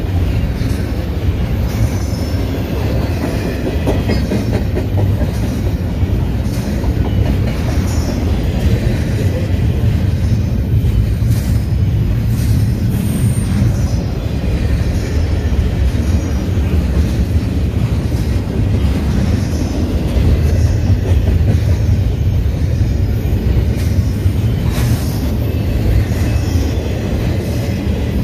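Double-stack intermodal container train's well cars rolling past: a loud, steady rumble of steel wheels on rail, with faint wheel squeal in the first few seconds and a few sharp clanks.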